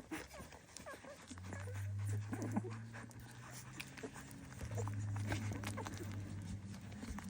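Litter of newborn Dalmatian puppies making small squeaks and whimpers, with scattered little clicks and rustles as they move. A steady low hum comes in about a second in and runs on with a short break.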